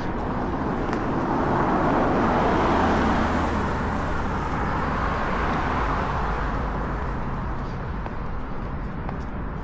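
A car passing on a nearby road: a rushing tyre and engine noise that swells to a peak about two to three seconds in, then slowly fades.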